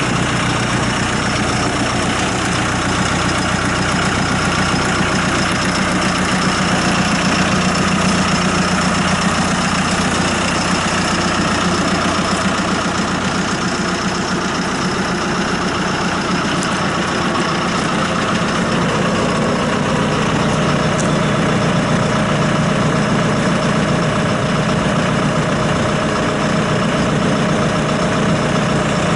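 Diesel engine of a John Deere 5115ML tractor running steadily.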